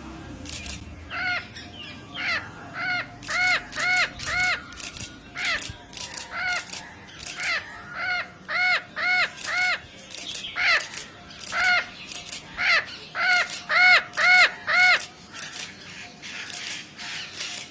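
A bird calling over and over: short arching caws, often in runs of three about half a second apart, with fainter higher chirps between them.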